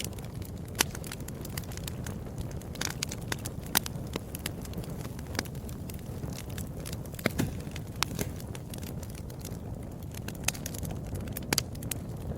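Wood fire burning with a steady low rush and irregular sharp crackles and pops.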